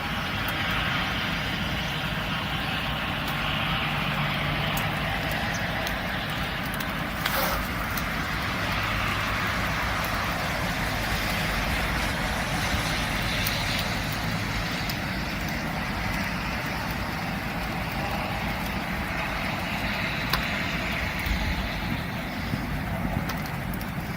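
Steady motor-vehicle noise: engine rumble with a road-noise wash, and a few sharp clicks.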